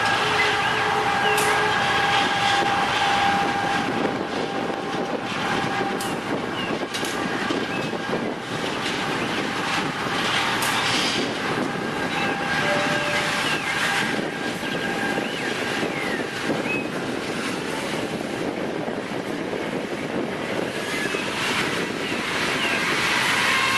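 Train rolling on the rails, a steady rush of wheel and track noise with a thin, steady squeal for much of the time and a few sharp clicks.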